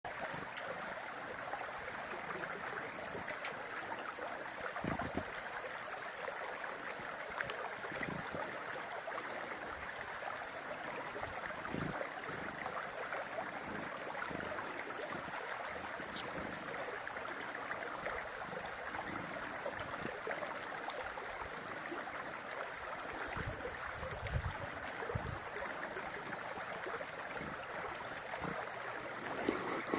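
Steady rushing of running water, with a few faint ticks and low bumps.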